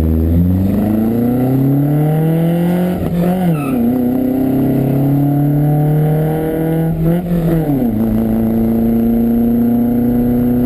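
Lancia Fulvia's narrow-angle V4 engine accelerating hard through the gears. Its pitch climbs, falls sharply at upshifts about three and seven seconds in, then holds fairly steady near the end.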